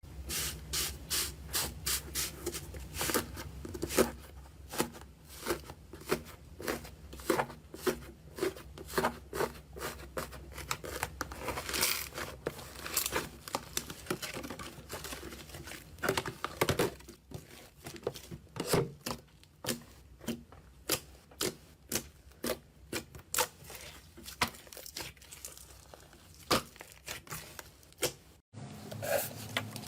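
Crunchy slime-type material being squeezed and crushed, giving many rapid, irregular sharp crackles and pops. The sound breaks off abruptly near the end at an edit.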